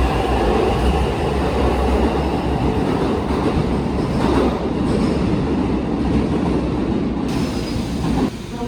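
Kintetsu electric train moving through the station platform, a loud steady rumble of wheels on rail that drops off sharply near the end.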